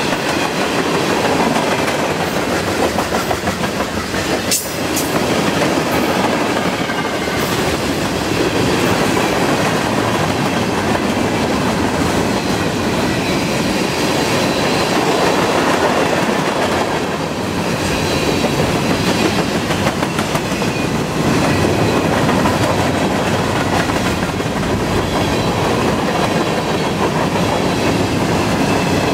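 Freight train's tank cars and covered hopper cars rolling past at speed: a steady, loud rumble of steel wheels on rail with clickety-clack over the rail joints.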